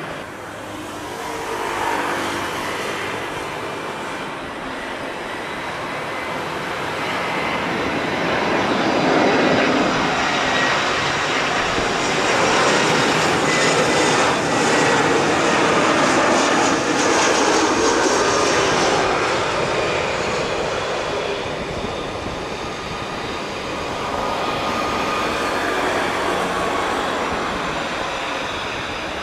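Airbus A320-214's CFM56 jet engines as the airliner comes in to land: a steady jet roar with a faint falling whine that builds over the first ten seconds, holds loudest for about ten seconds, then eases off.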